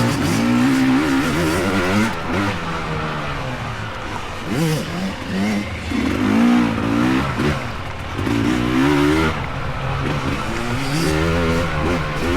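Dirt bike engines revving up and down over and over, the pitch rising and falling as the riders throttle on and off through the course.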